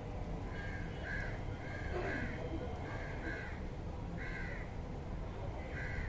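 A bird giving short, repeated calls, about eight in all and several in quick pairs, over a steady low background rumble.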